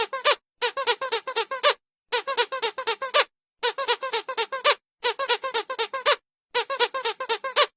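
Squeaky dog toy squeezed in quick runs of about six high squeaks, each run lasting about a second with a short pause between, repeating steadily six times.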